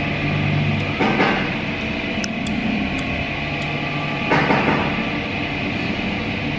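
A steady low hum, with two brief bursts of rattling or clattering, about a second in and a little past four seconds in, and a few light clicks between them.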